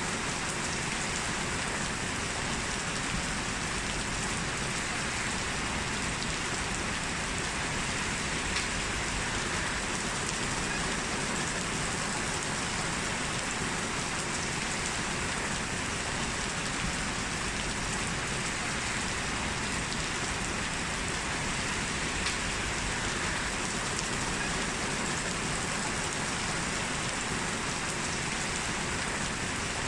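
Heavy rain falling steadily, a dense even hiss with the odd louder drop tick standing out.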